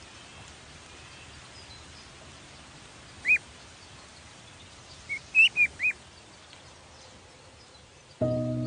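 A bird chirping: one short chirp, then a quick run of four chirps about two seconds later, over a faint steady background hiss. Sustained music chords come in near the end.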